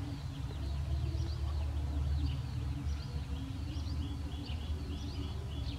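Small birds chirping over and over in quick, high-pitched notes, over a steady low rumble.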